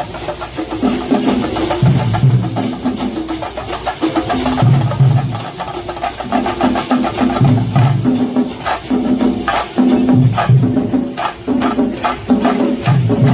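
Loud, percussion-led festival music: a dense run of rapid drum strokes over a recurring low pitched note pattern.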